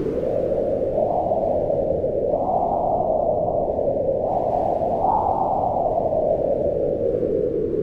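Wind blowing in slow gusts: a low rushing noise that rises in pitch about two seconds in, peaks again around five seconds, and sinks back toward the end.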